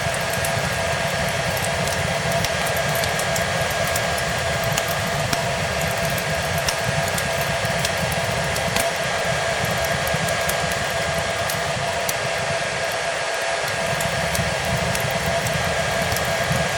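A hair dryer running steadily: an even rushing noise with a constant motor whine. Fireplace crackle is mixed in, heard as small scattered pops.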